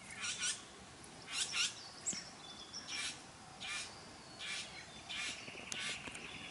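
Male satin bowerbird giving a series of short, harsh, rasping calls, about one every three-quarters of a second, in courtship display, advertising to females that he is ready for visitors. A steady high pulsing trill comes in near the end.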